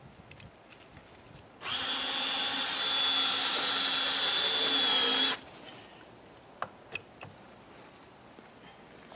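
A power tool runs steadily at one speed for nearly four seconds, starting about a second and a half in and cutting off abruptly; a few faint knocks follow.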